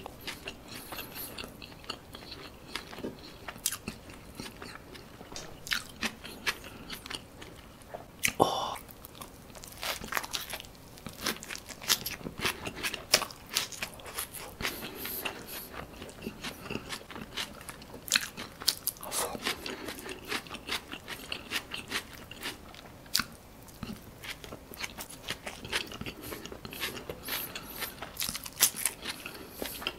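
Close-miked eating of a Prosperity burger: biting and chewing, with crunches and many small wet mouth clicks and smacks throughout.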